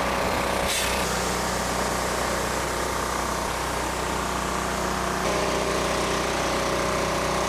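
Pressure washer running steadily, the drone of its small engine under the hiss of the water jet spraying into the pickup bed.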